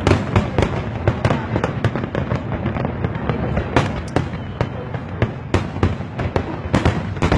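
Fireworks display: many sharp bangs going off at a fast, irregular pace over a continuous rumble of overlapping explosions.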